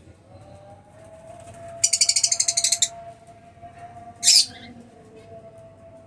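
Lovebirds calling: a rapid, shrill chatter lasting about a second, then a single sharp squawk about a second and a half later.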